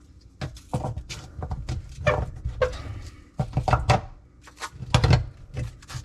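Plastic dishwasher parts clicking and knocking as the cover over the drain pump is fitted back into the sump, a string of short clatters with a few brief squeaks.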